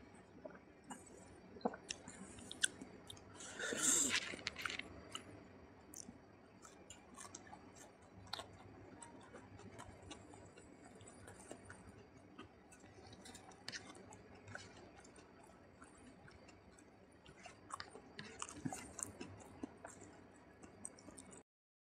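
Close-miked chewing of rice and curry, with many short mouth clicks and smacks; a louder stretch of noise about four seconds in. The sound cuts off abruptly near the end.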